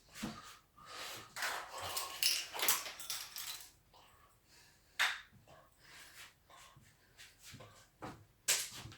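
Hands working at a small tube of super glue that won't give: irregular scrapes and rustles with sharp clicks, the busiest handling in the first few seconds, one sharp click about five seconds in and another near the end.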